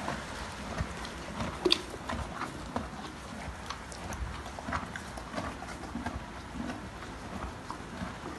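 Horse chewing and munching a water-soaked feed of cubes and chaff, with irregular crunches and small clicks and one sharper click about two seconds in.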